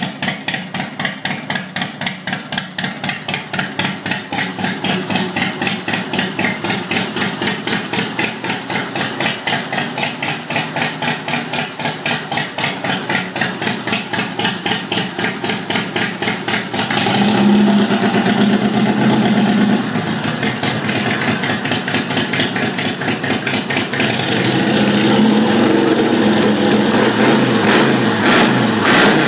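Harley-Davidson Fatboy's 1340 Evolution V-twin, fitted with a Freedom Performance exhaust, idling with an even pulsing beat. Past halfway it is revved up, and revved again near the end.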